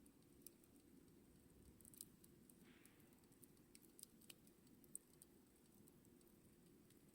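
Faint campfire crackling: sparse, irregular small pops and ticks over a low steady background hum, with a brief soft hiss about three seconds in.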